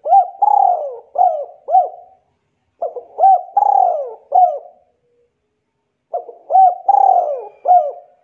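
A dove cooing: three phrases of several swooping, arching notes, each phrase about two seconds long and repeated every three seconds or so.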